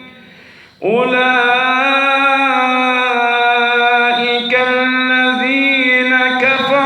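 A man recites the Quran in a melodic chant. After a short breath pause comes one long drawn-out phrase with ornamented turns in pitch.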